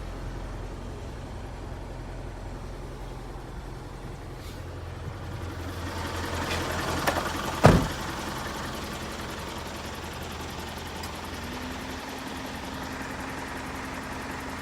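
Isuzu Elf truck engine idling steadily, swelling a little louder just before halfway through. A single sharp thump a little over halfway through is the loudest sound.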